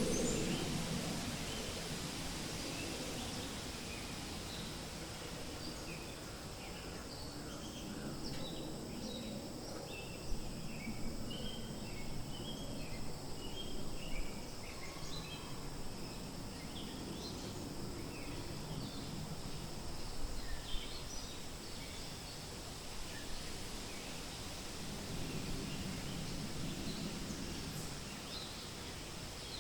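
Wind rustling through forest leaves in a steady wash, with many small birds giving short high chirps, busiest through the middle of the stretch.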